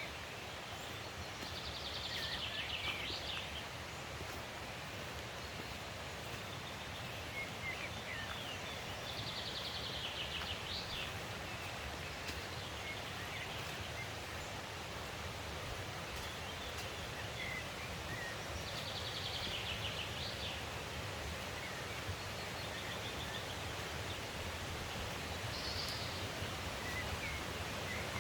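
Steady rush of a mountain stream, with a songbird singing a short, fast trilled phrase every several seconds, about five times.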